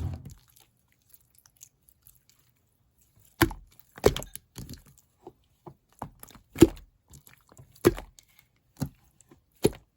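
Jelly-textured slime being squeezed and pressed by hand, giving sharp wet clicks and pops about once a second, starting a few seconds in.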